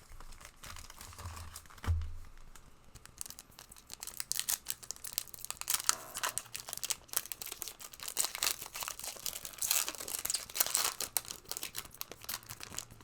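Trading-card packs and cards shuffled by hand: quick, dense crinkling and clicking of foil wrappers and card stock, busiest through the middle of the stretch. There is a soft knock about two seconds in.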